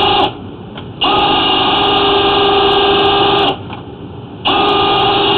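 Flex-shaft drain cleaning machine spinning its chain cutter to shred a tree root in the sewer line: a steady high-pitched whine run in three bursts. One burst stops just after the start, one lasts about two and a half seconds from about a second in, and the last starts near the end.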